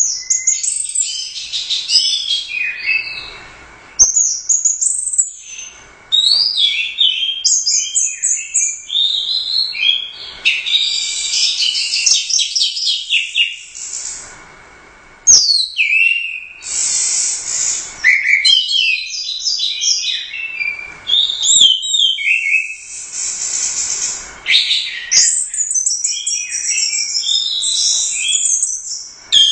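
Orange-headed thrush singing loudly and continuously, in full song (gacor): rapid, varied phrases of high, sweeping whistles and chattering notes. Short pauses come every few seconds.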